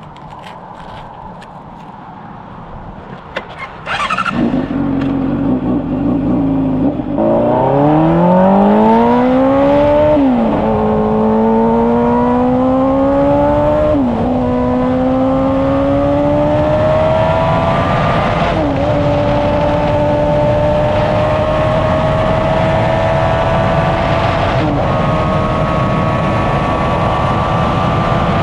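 Honda CBR600RR inline-four sport bike accelerating hard through the gears: after a quieter start, the engine note jumps up about four seconds in, then climbs steadily in pitch and drops sharply at each upshift, four times, before holding a high, slowly rising note with steady wind rush at speed.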